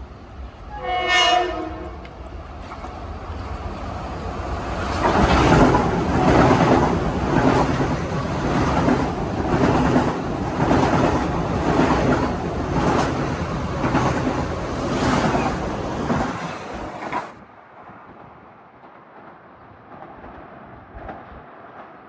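Metro-North train sounding one short horn blast, then passing close by with a steady rumble and rhythmic clicking of wheels over rail joints, about one click a second. The passing noise stops abruptly about 17 seconds in.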